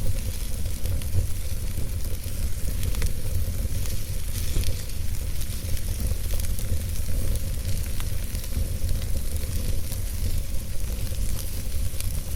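Logs burning in a fireplace: a steady hiss over a low rumble, with scattered small crackles and pops.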